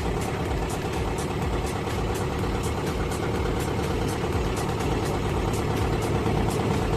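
LovoL 404-A tractor's diesel engine idling steadily, with a light regular ticking about four times a second over the running.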